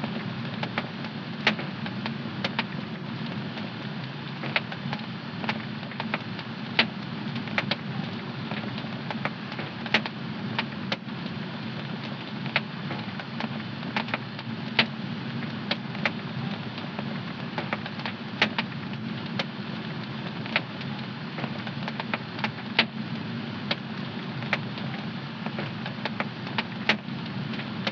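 Fire in a home fireplace crackling: irregular sharp pops, about one or two a second, over the steady low rush of the flames.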